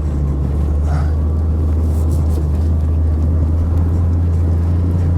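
Four-wheel-drive Jeep being driven through snow, its engine and drivetrain making a steady low drone.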